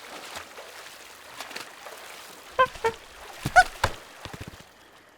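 Cartoon sound effects: short, high squeaky calls, two about two and a half seconds in and three more a second later, over soft clicks and rustling.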